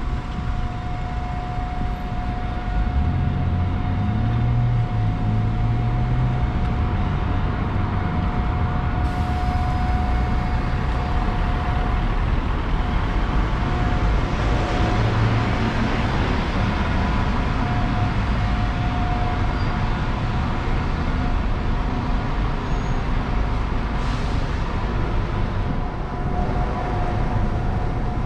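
Diesel passenger train running: a steady low rumble with a constant whine over it, getting a little louder about three seconds in.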